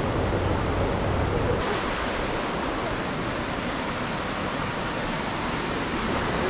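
Waterfall rushing, a steady loud hiss of falling water; about one and a half seconds in the deep rumble drops away and the hiss turns brighter.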